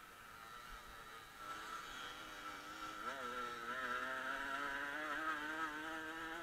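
Off-road motorcycle engine running under throttle. Its note dips and wobbles about halfway through, then climbs steadily and gets louder as the bike speeds up along the straight.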